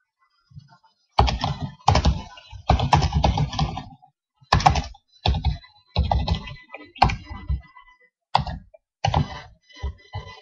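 Typing on a computer keyboard in short bursts of clicks with pauses between.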